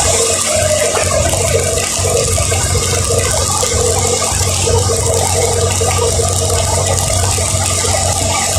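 Steady hiss of a vehicle driving on a rain-wet road, with a low, even running hum and a light rattle.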